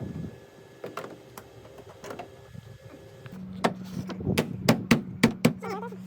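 Scattered light clicks, then a steady low hum starts about three seconds in, and a quick run of about seven sharp knocks follows.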